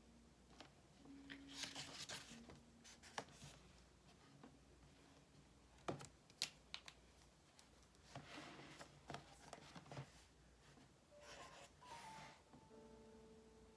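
Soft rustles of paper pages being handled and turned, with a few light clicks, over faint piano music.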